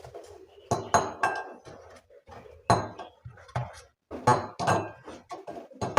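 Dishes and cutlery being handled, clinking and knocking against each other in a quick irregular series, several of the clinks ringing briefly.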